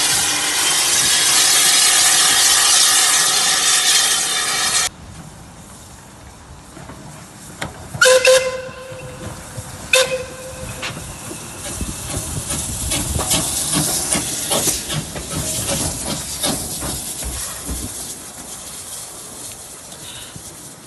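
A steam locomotive venting steam in a loud, steady hiss that cuts off abruptly about five seconds in. Then come two short whistle toots about two seconds apart, followed by quieter puffing and knocking.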